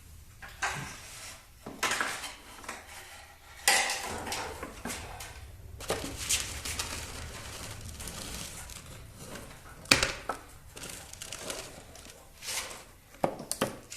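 Irregular metal clanks and knocks as a walk-behind lawnmower is tipped on its side and handled to drain its engine oil, the loudest knocks about four seconds and ten seconds in.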